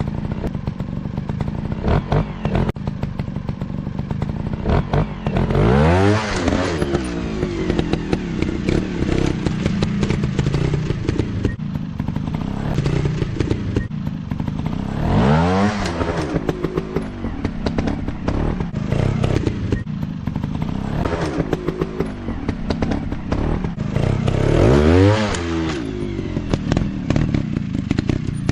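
Dirt bike engine running, revved up and back down three times about ten seconds apart, with clattering and crackling throughout.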